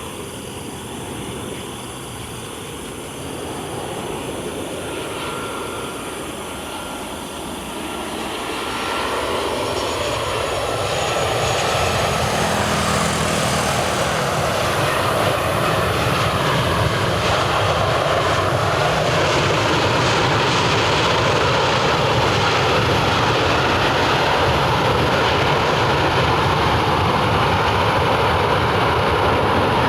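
Batik Air Boeing 737-800 landing, its jet engine noise swelling from about a third of the way in and then holding as a loud, steady roar.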